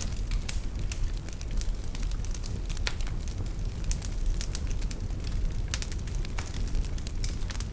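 Wood fire burning in a fireplace: irregular sharp crackles and pops, several a second at times, over a low steady rumble.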